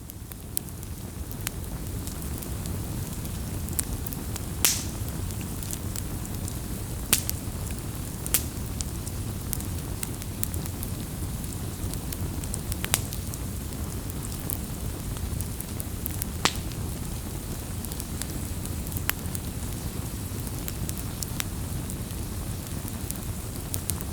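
Wood fire burning: a steady low rush of flame with sharp crackles and pops every second or two, a couple of them louder snaps. The sound fades up at the very start.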